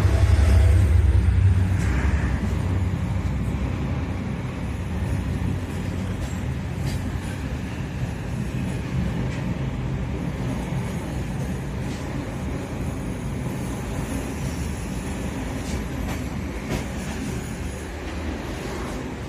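Steady rumble of a moving passenger train, heard from inside the carriage by the door. It is loudest in the first couple of seconds, then eases to an even rumble with a few faint clicks.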